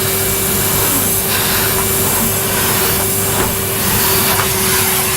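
Vacuum cleaner running steadily while hoovering up dog fur: a continuous airflow hiss with a steady motor whine, the suction sound shifting slightly as the nozzle moves.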